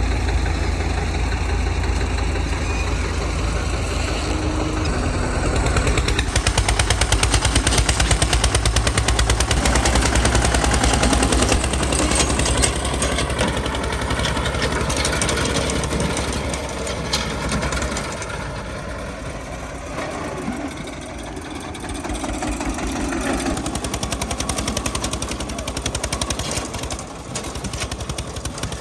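Eicher 242 tractor's diesel engine running with a rapid, even beat of pulses, easing somewhat about two-thirds of the way through.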